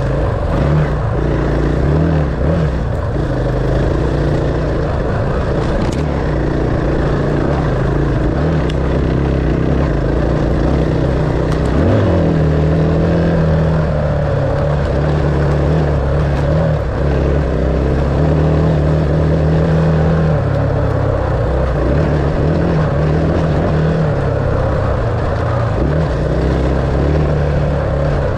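Vehicle engine running continuously at a fairly steady pitch, rising and easing slightly now and then.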